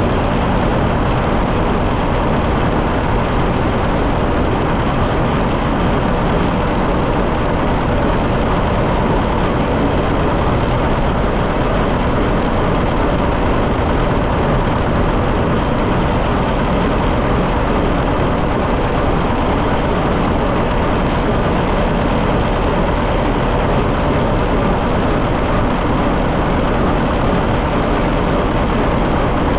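John Deere 730 tractor's two-cylinder engine running steadily under way down the road, a loud, even, unbroken run of fast pulses.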